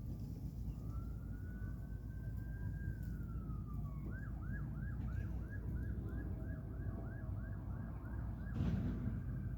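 Emergency vehicle siren: one slow wail rising and then falling, switching about four seconds in to a fast yelp of about three sweeps a second, over a steady low rumble. A brief knock near the end.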